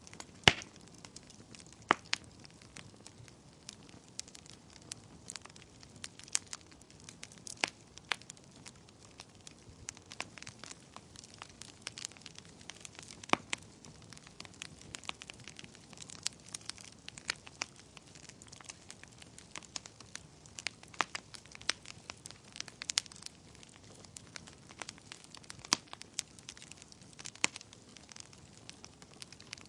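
Wood fire crackling in a fireplace: irregular sharp pops and snaps over a soft hiss of burning, with a few louder pops.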